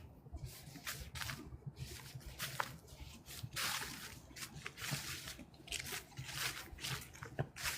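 Footsteps crunching through dry fallen leaves: a run of irregular crunches about every half second.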